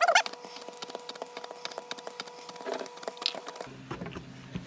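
Hand-operated gear oil transfer pump being worked on a quart bottle, giving irregular crackling clicks and creaks, with a short squeak right at the start. The background changes abruptly about three-quarters of the way through.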